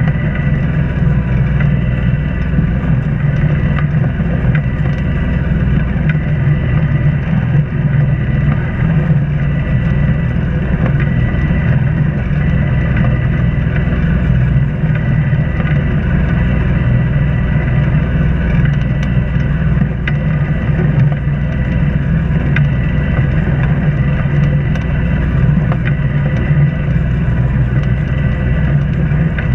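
Sailboat's inboard engine running steadily under way, a constant low drone with a few faint steady tones above it.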